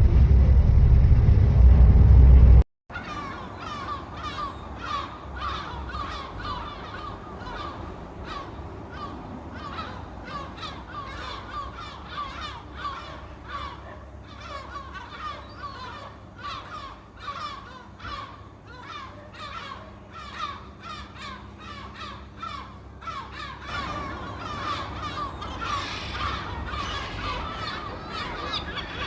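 A loud low rumble for the first few seconds that cuts off abruptly, then a flock of seagulls calling: many short, overlapping squawking calls, one after another, until the end.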